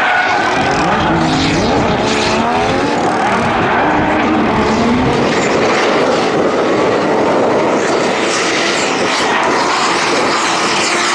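Drift cars on track in a tandem run: engines revving up and down, several pitches at once, over a steady hiss of tyre noise.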